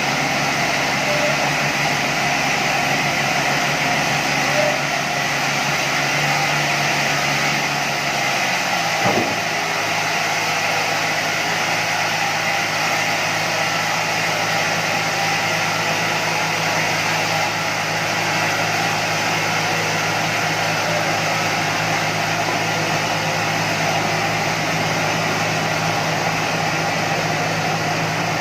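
Sawmill machinery running with a steady, even noise. About nine seconds in, its low hum shifts to a different pitch with a brief knock, then runs on steadily.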